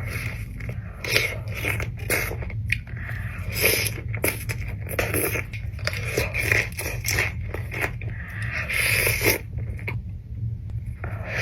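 Close-up eating sounds: a person biting and chewing food, with scraping and crunching, in irregular bursts about once a second over a steady low hum.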